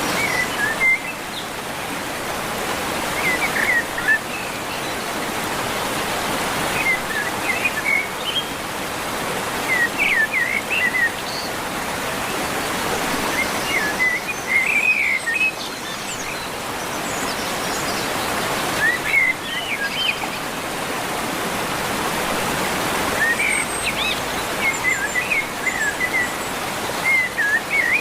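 A bird chirping in short, quick phrases every few seconds over a steady rushing background noise.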